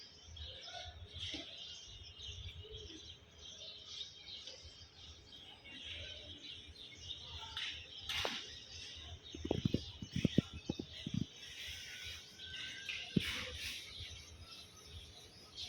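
Small birds chirping over a low, steady rumble, with a short run of knocks about ten seconds in.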